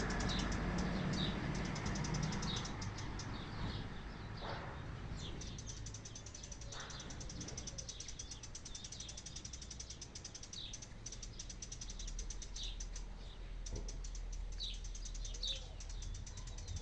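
Small birds chirping: short, high chirps that sweep down, repeating every second or so over a steady background hiss.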